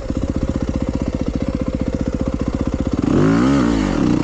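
Dirt bike engine running at low revs with a steady, even putter, then revving up and back down about three seconds in.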